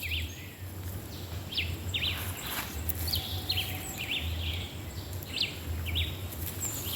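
Birds chirping outdoors: many short, sharp, high chirps scattered throughout, over a low rumble.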